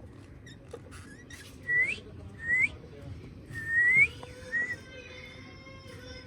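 Four short whistled notes, each rising in pitch, the longest and loudest near the middle, among parrots in a room.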